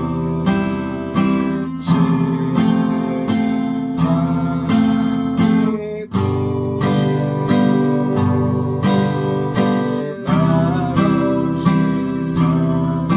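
Acoustic guitar strummed as a 3/4 waltz accompaniment: a low bass stroke followed by two chord strums on the upper strings, at about one and a half strokes a second, moving through simple open chords.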